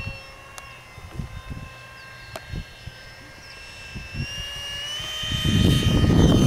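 The Freewing F-35 RC jet's 4300kv 64 mm electric ducted fan whining in flight: a steady high-pitched whine that rises in pitch and grows louder over the last couple of seconds. Wind rumbles on the microphone at the start and again from about five seconds in.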